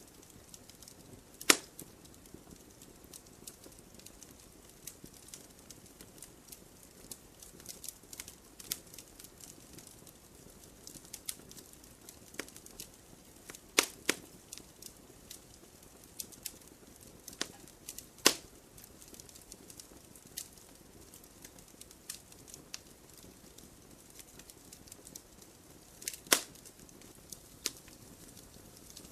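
Wood campfire crackling: a steady scatter of small snaps over a faint hiss, with a handful of sharp louder pops, two of them close together about halfway through.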